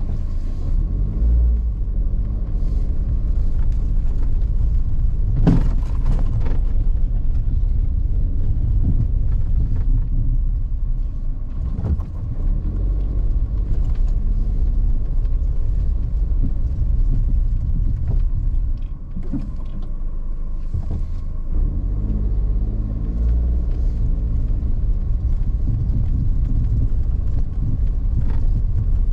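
Car driving, a steady low rumble of engine and tyres whose pitch rises and falls a little, with a few sharp knocks scattered through it.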